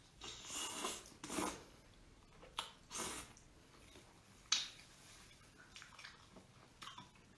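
Close-miked eating of spicy chicken feet: wet chewing, sucking and nibbling on the skin and bones in irregular bursts, busiest in the first three seconds, with one sharp click about four and a half seconds in.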